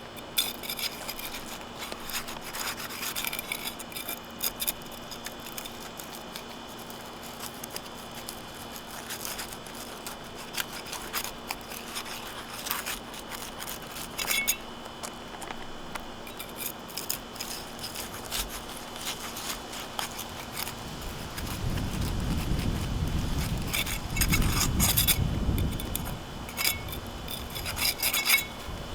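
Asphalt shingle seals being broken with a hand tool: a run of rubbing and scraping strokes with small clicks as the tool works under the sealed shingle edges. A heavier low rumble joins about three-quarters of the way through.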